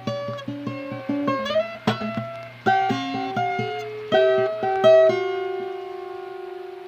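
Guitar playing a melody of single plucked notes, with a slide up about a second and a half in and a long note held from about five seconds in.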